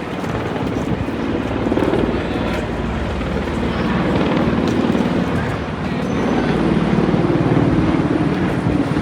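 Helicopter flying nearby, a loud, steady rotor chop that grows a little louder in the second half.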